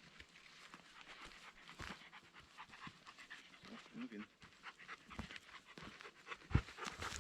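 A dog panting, faint, among scattered light clicks and crackles.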